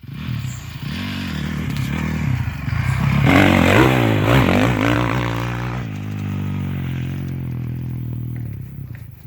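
Honda 450 four-stroke dirt bike engine revving as it is ridden, its pitch rising and falling with the throttle. It is loudest about three to five seconds in, then holds a steadier note and fades near the end.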